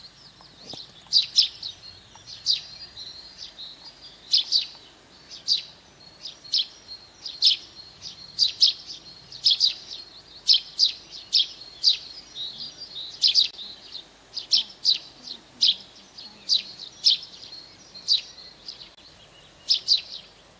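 A bird calling again and again in short, sharp chirps, just under two a second, some in quick pairs, over a steady high hiss.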